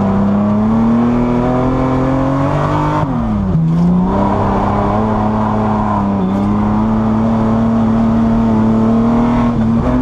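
Nissan Skyline C10 'Hakosuka' straight-six pulling hard on track, heard from inside the cabin. The revs climb slowly, dip sharply about three seconds in, then come back up and hold.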